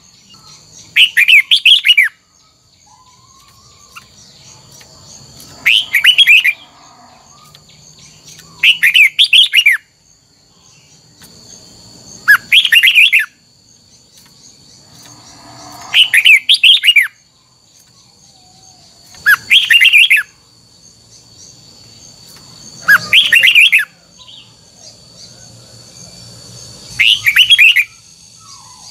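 Red-whiskered bulbul singing: short loud phrases of quick rising and falling notes, each about a second long, repeated about every three and a half seconds, eight times. A faint steady high whine runs underneath.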